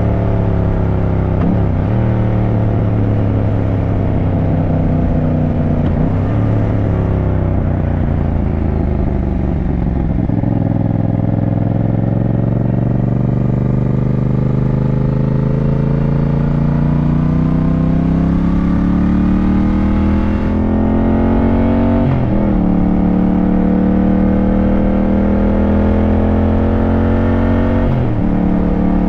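Yamaha motorcycle engine running under way through the gears: its pitch climbs, then drops sharply at each upshift, about four times, with one long slow climb in the middle.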